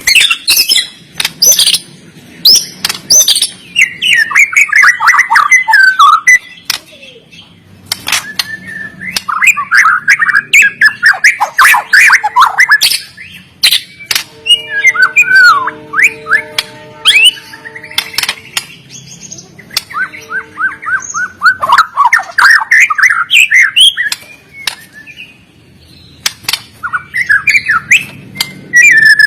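White-rumped shama singing its full, aggressive 'fighter' song: bursts of fast, varied warbling phrases mixed with sharp clicking notes, with short pauses between bursts and a run of steady, even notes about halfway through.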